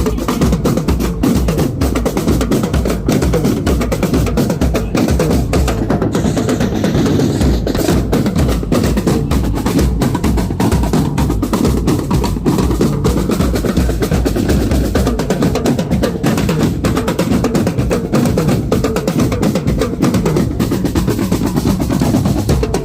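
Marching drum corps playing without a break: snare drums rolling and rattling over steady bass drum beats.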